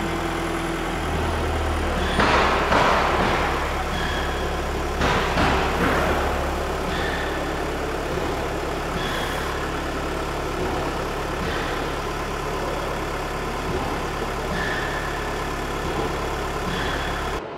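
Metalworking factory machinery running: a steady low hum with louder noisy surges about two and five seconds in, and faint short high tones now and then.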